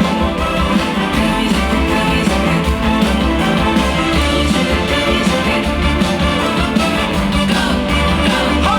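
Live band playing the upbeat instrumental intro of a trot twist song, with a steady driving beat.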